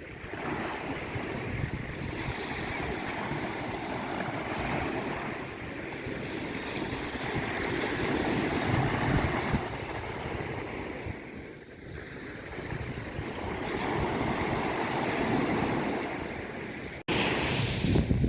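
Sea waves surging and washing back in slow swells. The sound cuts out abruptly for an instant about a second before the end, then comes back with a louder surge.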